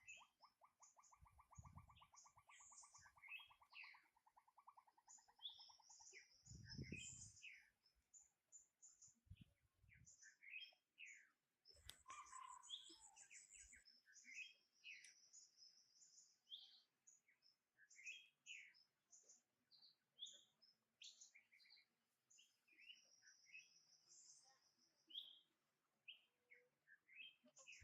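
Faint bird chirping: many short, high chirps throughout, with a rapid buzzy trill in the first six seconds and a few low thumps.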